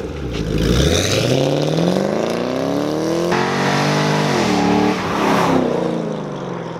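Chevrolet Camaro's engine and exhaust revving as the car accelerates: the note climbs for about three seconds, drops suddenly once a little later, climbs again, then fades near the end.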